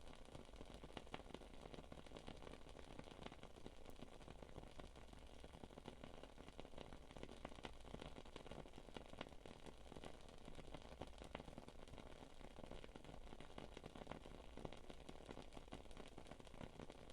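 Faint crackling of a burning wood-wick candle: a steady run of small, irregular ticks and pops.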